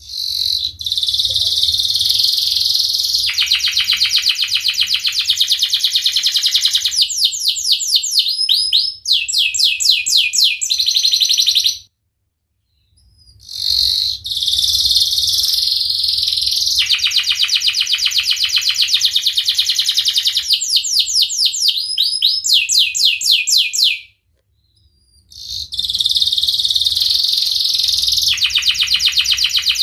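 Domestic canary singing long, loud song phrases of rapid trills and rolling repeated notes. The song runs in three long bouts, broken by two short silences about twelve and twenty-four seconds in.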